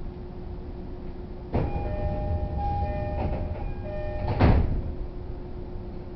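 Passenger doors of an E231 series commuter train sliding, with the electronic door chime sounding in short repeated tones. The doors end in a heavy thump as they reach their stops, over the train's steady hum at standstill.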